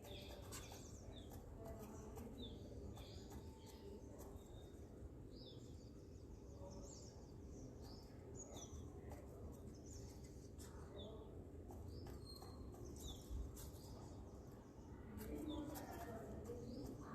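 Small birds chirping in the background: many short, high chirps, a few each second, over a faint low rumble.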